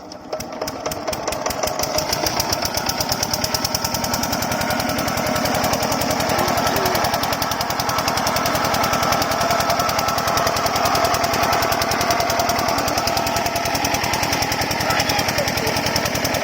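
8 HP diesel water-pump engine catching just after the start and picking up speed over the first few seconds, then running steadily with a rapid, even knocking beat.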